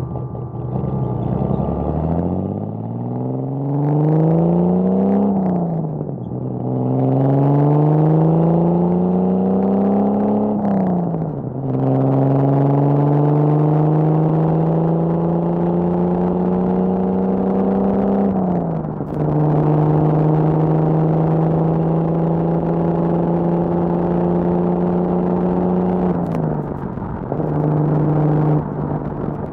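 1979 Datsun 280ZX's L28 inline-six on triple Weber carburettors, breathing through an HKS Hi-Power exhaust, accelerating from a slow turn up through the gears: three rising pulls, each ended by a gear change, then a nearly steady cruise. It eases off near the end.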